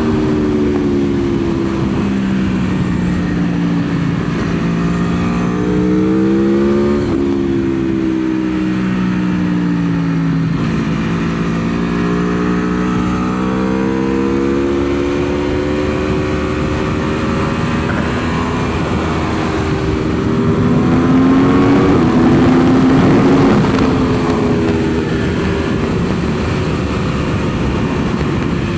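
Aprilia Tuono V4's V4 engine on a track lap, its pitch climbing and falling as the rider accelerates and backs off, with sudden jumps in pitch at gear changes about 7 and 10 seconds in. A steady rush of wind runs underneath.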